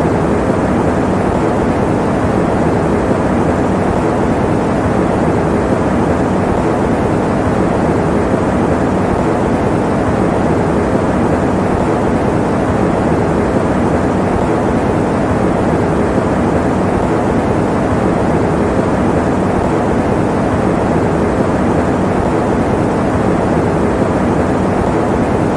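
Electric fan running: a steady, unchanging rush of air noise, deep rather than hissy.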